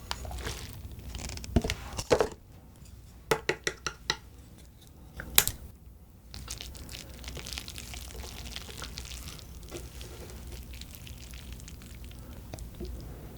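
Eating sounds of jjajang (black bean sauce) noodles: a few sharp clicks of utensils on a bowl, with a quick run of four about three seconds in. From about halfway through comes a steady fine crackle of wet chewing and mouth sounds.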